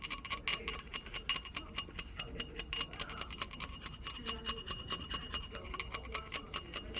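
Light hammer taps on a thin 18 karat gold ring shank, several a second with a short metallic ring, to straighten the shank where it has bowed out.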